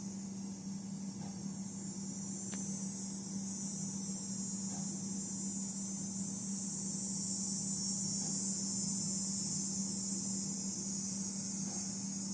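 Steady high-pitched drone of a chorus of insects, swelling louder in the middle and easing off again, over a steady low hum.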